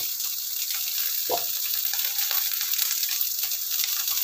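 Green beans and ginger sizzling in a wok, a steady high hiss, with a light knock about a second in.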